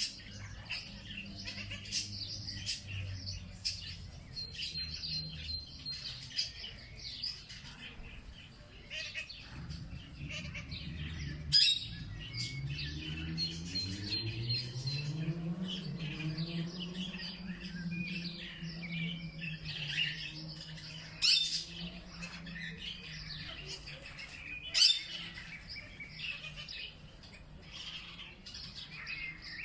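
Many birds chirping and calling at once, with a few louder squawk-like calls. Under them runs a low motor-like hum that rises in pitch about twelve seconds in and then holds steady. Three sharp clicks stand out as the loudest moments.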